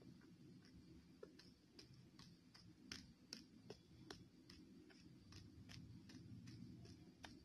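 Faint, crisp crunching clicks, irregular and a few a second, of teeth biting and chewing pieces of hard baked clay pot, over a low steady hum.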